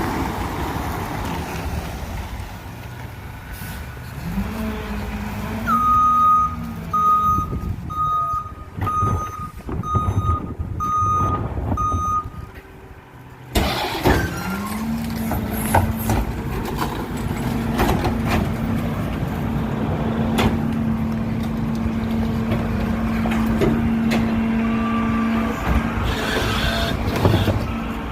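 Recycling truck's diesel engine running. Its reversing alarm beeps about nine times as it backs up. Then comes a sudden loud burst, and the engine revs up and holds a steady higher pitch.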